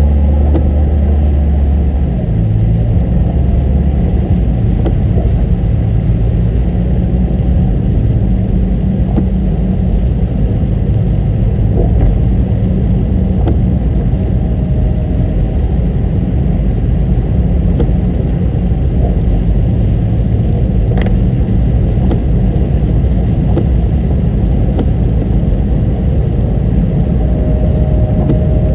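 A car being driven: a steady low rumble of engine and tyre noise, with scattered faint ticks.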